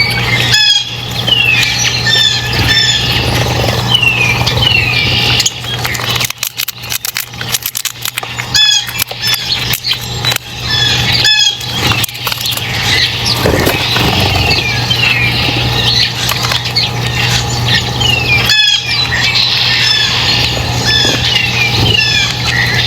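Small birds calling, a run of short descending chirps repeated many times, over a steady low hum, with scattered sharp clicks.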